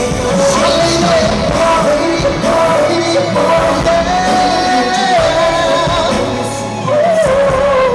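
Korean pop song performed live: a singer holding long, wavering notes over a full band, loud and steady.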